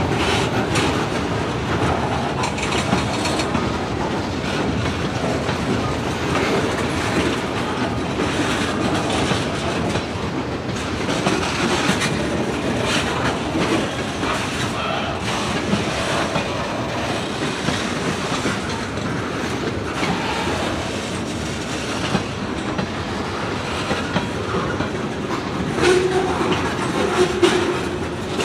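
A freight train's cars rolling past, the wheels clacking steadily over rail joints, with a brief wheel squeal near the end.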